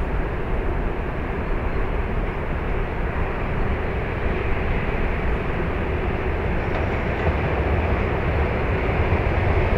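Train hauled by a VL10 electric locomotive running by, a steady rumble of wheels on rails that grows a little louder near the end.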